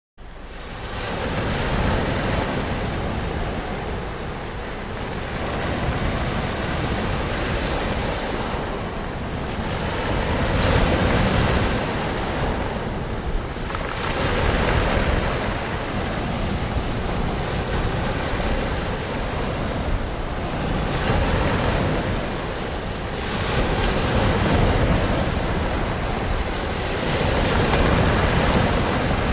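Ocean surf: waves breaking in a continuous rush that swells and eases every few seconds, starting suddenly out of silence.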